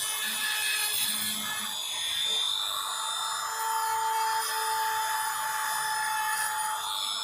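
Small high-speed power tool running with a steady whine over a grinding hiss, working material.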